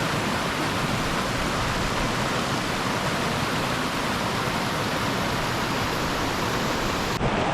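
A fast mountain creek flowing hard over rocks, a steady roar of rushing water. The sound shifts abruptly near the end.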